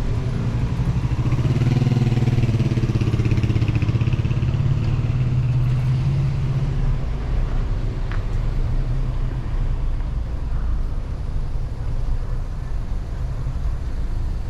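A motor vehicle's engine passes close by, loudest in the first half and then easing off into a steady low traffic rumble. A brief click comes about eight seconds in.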